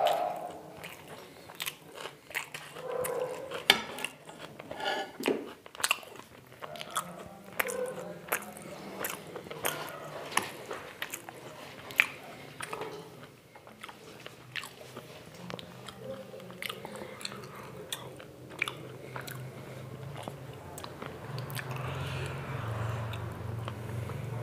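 Close-miked chewing and crunching of food, with many sharp clicks and wet mouth sounds. A low steady hum comes in near the end.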